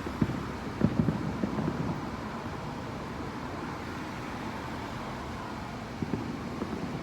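Distant fireworks heard through a window: a cluster of muffled low booms about a second in and a few more near the end, over a steady low rumble.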